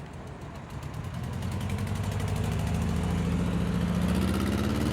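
A car engine running, growing steadily louder over the first few seconds and rising a little in pitch near the end, as the car comes closer.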